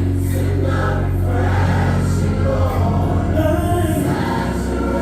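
Gospel choir singing over a band with a steady bass line.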